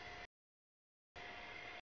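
CSX intermodal freight train rolling through the grade crossing, its wheel and rail noise heard in broken fragments that cut in and out, twice in this stretch.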